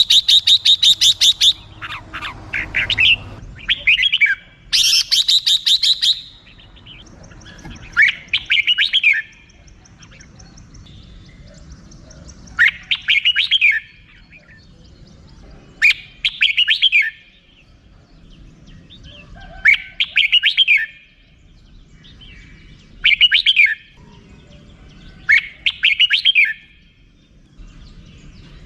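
Red-whiskered bulbul calling: a fast run of 'rik-rik-rik' chattering notes at the start and again about five seconds in, then short warbled song phrases repeated every three to four seconds.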